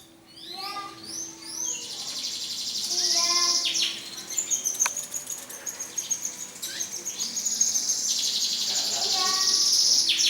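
Canary song: long, fast, high-pitched trills and rolls mixed with shorter chirps, growing louder near the end.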